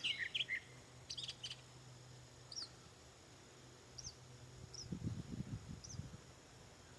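Gray catbird singing: a quick jumble of chirping notes in the first second and a half, then single short high chirps about a second apart. A brief low rumble comes around five to six seconds in.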